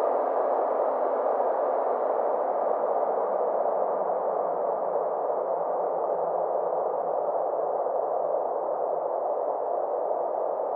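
Synthesized space-ambience drone: a steady band of muffled, filtered noise, its upper edge slowly sinking and then starting to rise again near the end.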